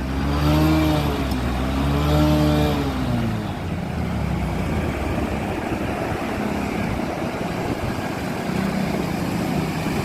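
A motor vehicle engine revs up and falls back twice in the first three seconds. After that comes a steady, rough road-traffic noise.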